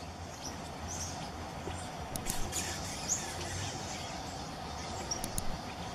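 Scattered short, high bird chirps over a steady background hum, with a few sharp clicks about two seconds in and again near the end.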